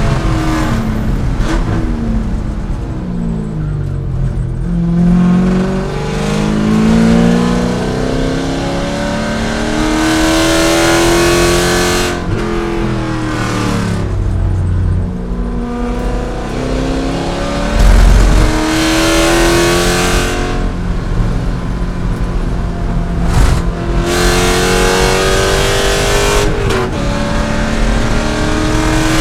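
C5 Corvette's 5.7-litre pushrod V8 running hard at racing speed. Its pitch repeatedly climbs, then cuts off abruptly or falls away as the driver shifts or lifts and brakes. A heavy low thump comes about two-thirds of the way through.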